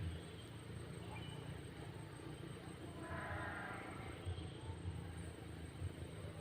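A coucal chick gives one short, raspy call about three seconds in, over a steady low rumble.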